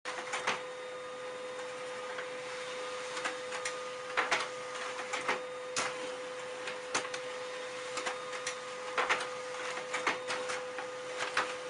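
Desktop printer printing: a steady hum with a constant tone, broken by frequent irregular clicks and clacks of its paper feed.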